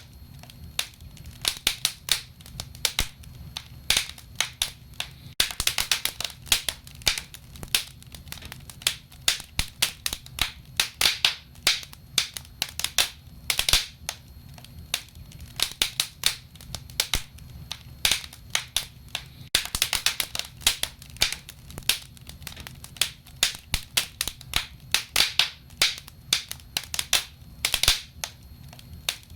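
Wood fire crackling: irregular, frequent sharp pops and snaps from burning logs, in bursts every second or two, over a low steady rumble.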